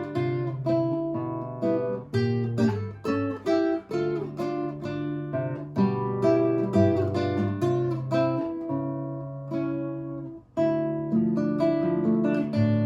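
Russian seven-string acoustic guitar playing a Gypsy folk melody, plucked single notes over bass notes and chords. A brief break comes about ten seconds in, then a loud chord starts the next phrase.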